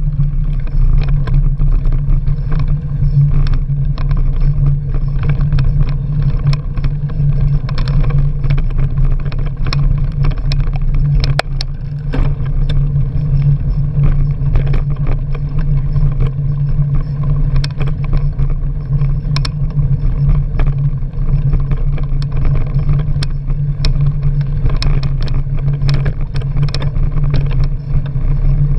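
Wind buffeting the microphone of a camera riding on a moving bicycle: a loud, steady low rumble, with frequent small clicks and knocks from the bike jolting over the trail.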